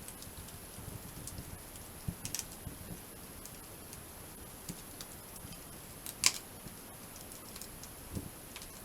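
Wood campfire crackling, with scattered small ticks and a sharp pop about six seconds in.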